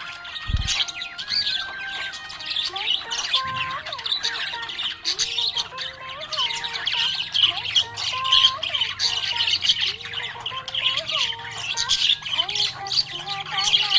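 Budgerigars chirping and chattering nonstop in a busy, high-pitched stream of short calls, over background music.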